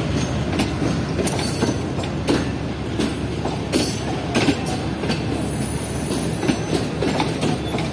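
Pakistan Railways passenger coaches pulling out of the station and rolling past, with their wheels clacking irregularly over the rail joints above a steady rumble.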